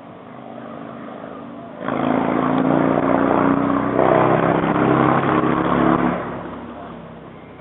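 A motor vehicle's engine passing close by: it builds, runs loudly for about four seconds, then fades away.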